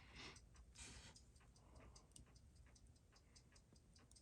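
Faint, rapid, even ticking at about six ticks a second: the balance of a running Seiko 6139 automatic chronograph movement.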